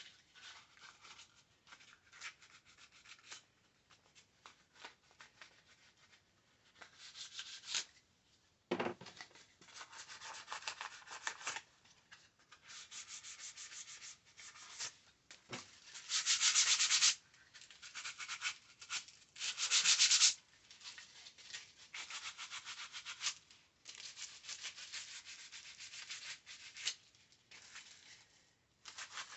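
Hand sanding of a headlight trim piece's edges with 600-grit wet/dry sandpaper: quick back-and-forth rubbing strokes that come in bursts with short pauses, loudest a little past halfway.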